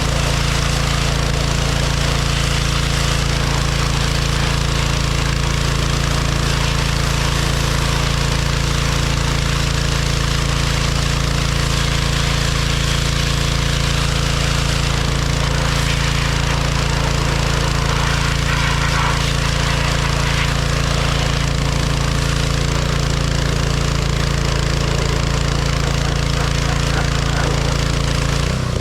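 John Deere 1025R compact tractor's three-cylinder diesel engine running steadily, without change in speed.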